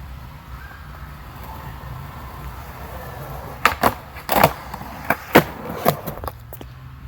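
Skateboard wheels rolling on pavement with a low rumble, then a run of sharp clacks and slaps of the board hitting the ground as a trick is attempted, about six in all, the loudest about four and a half seconds in.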